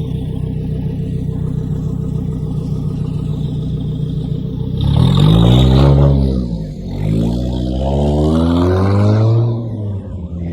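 A tuned car engine idling steadily, then revving hard twice about five and seven seconds in, each rev rising in pitch and falling back.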